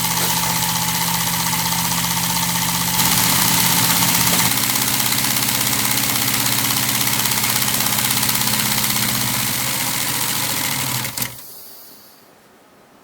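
Lego pneumatic beam engine running on compressed air: a steady loud hiss of air with a low hum beneath it, getting a little louder about three seconds in. About eleven seconds in the sound cuts off sharply and dies away.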